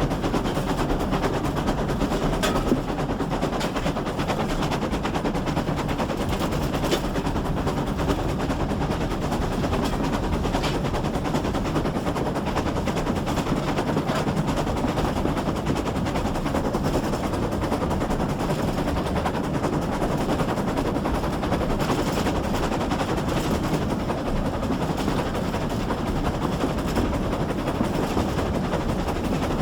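GWR 6400-class pannier tank steam locomotive no. 6412 running at speed, heard from on board the train: a fast, steady rattle of exhaust beats and wheels on the rails.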